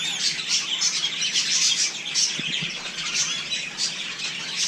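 Birds chirping and chattering, many short high calls overlapping without a break.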